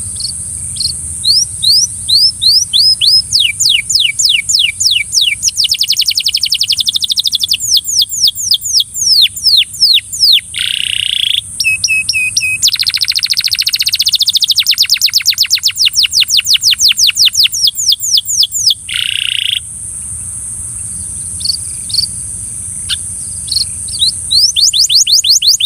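Belgian canary singing: phrases of rapidly repeated down-slurred notes that speed into fast rolling trills, with a long trill in the middle and a few single notes in a quieter stretch before another trill near the end. A steady high hiss runs underneath.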